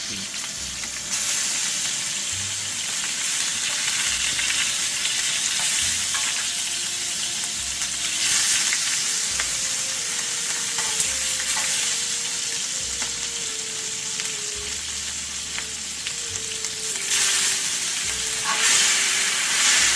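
Food sizzling steadily as it fries in a cast-iron pot, with a few light clicks.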